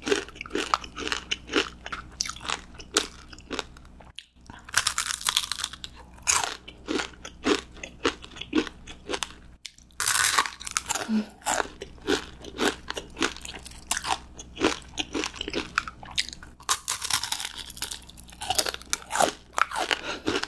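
Close-miked eating sounds: crunchy bites into a fried giant gimmari (glass-noodle seaweed roll) and steady chewing. Denser bursts of crunching come about five, ten and seventeen seconds in.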